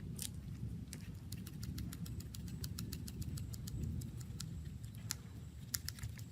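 Many small sharp clicks and taps from handling a smartphone and its parts during repair, scattered irregularly over a low steady rumble.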